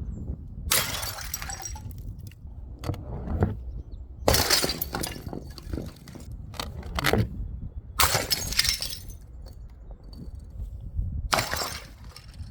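Glass bottles shattering: four loud crashes about three to four seconds apart, each trailing off over about a second, with smaller clinks and knocks between them.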